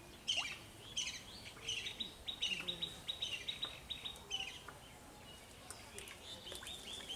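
A songbird singing: repeated high chirps, with a fast rattling trill for about two seconds in the middle.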